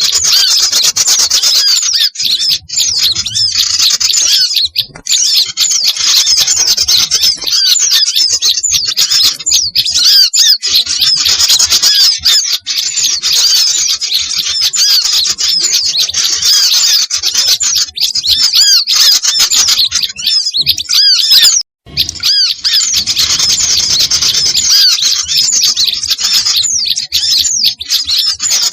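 A dense, loud chorus of many small songbirds chirping and squawking over one another: a bird-luring (pikat) recording made to draw small birds in. The calls stop for a split second about two-thirds of the way through, then carry on.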